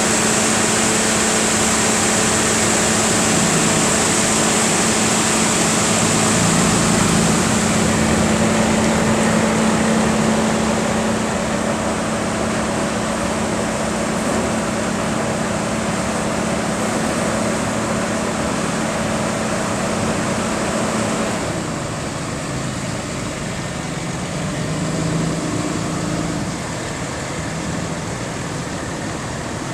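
2011 Ford F-750 truck's engine running steadily, a constant hum with a hiss over it. About two-thirds of the way through the hum changes and the sound gets a little quieter.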